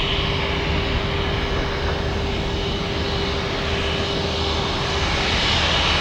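Boeing 737 MAX's CFM LEAP-1B jet engines running at climb power as the airliner climbs away after takeoff, a steady, even roar.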